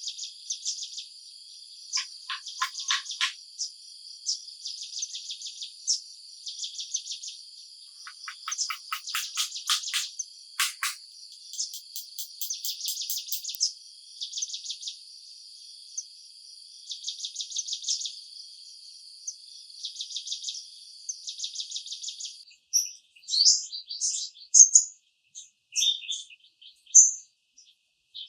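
Chorus of insects: a steady high-pitched drone overlaid with repeated rapid pulsing trills that come in bursts every couple of seconds. About 22 seconds in it cuts off and gives way to scattered bird chirps.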